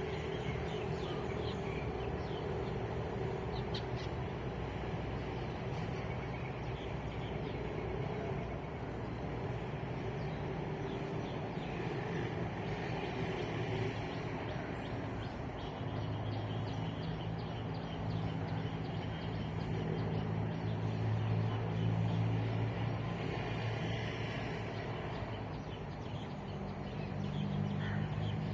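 Road traffic running steadily, with a vehicle engine hum that swells and is loudest a little past the middle, and birds chirping over it.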